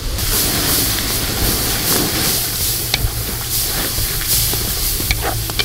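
Chopped garlic, chili and onion sizzling in hot oil and butter in a large metal wok, stirred with a wooden spatula, with a steady hiss and a few sharp clicks.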